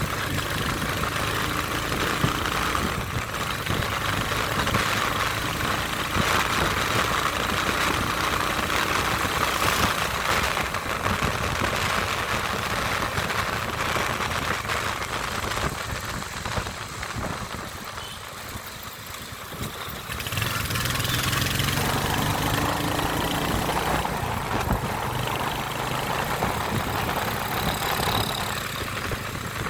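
Royal Enfield Hunter 350's single-cylinder engine running, easing off for a few seconds past the middle and picking up again about twenty seconds in.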